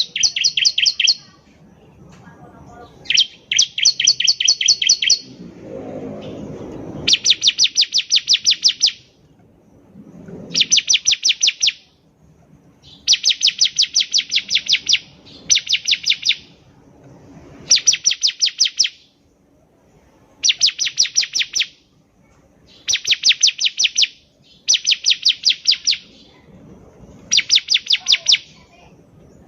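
Bar-winged prinia (ciblek) singing in an energetic, full-volume style: repeated bursts of fast, evenly spaced high chips, each burst one to two seconds long, coming about every two to three seconds.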